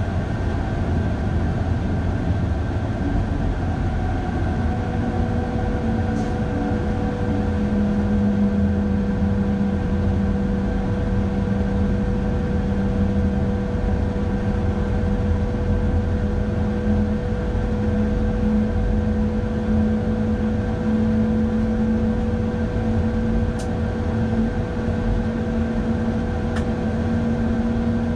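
Electric train climbing a steep grade, heard from the driver's cab: a steady rumble of wheels on rail with a low motor hum that slowly rises in pitch, and a few faint clicks.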